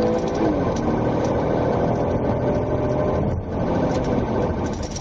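Police cruiser engine and road noise heard from inside the car during a pursuit, steady, with a brief dip about three and a half seconds in.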